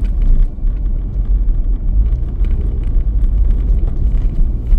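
Steady low rumble of a vehicle driving along the road: engine and tyre noise.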